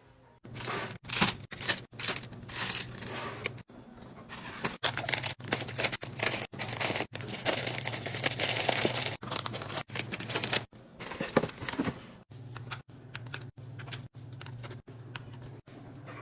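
Plastic packaging crinkling and rustling, with small clicks and clatters of containers being handled and set down while a fridge is restocked, in short snippets that cut off abruptly. A low steady hum runs under some stretches.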